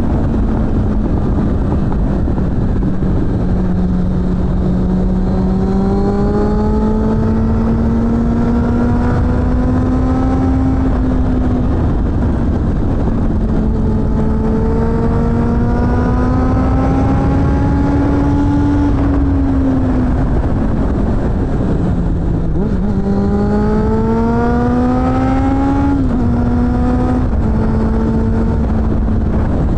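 Suzuki GSF600 Bandit's inline-four engine through a BOS aftermarket exhaust, ridden on the road. The engine note climbs in pitch several times and drops back at each gear change. It falls away on deceleration about twenty seconds in, then climbs again and settles lower in a few quick steps near the end, over a steady rush of low noise.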